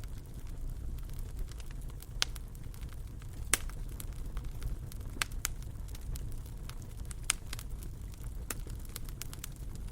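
Fireplace fire crackling: scattered sharp pops over a low steady rumble, the loudest pop about three and a half seconds in.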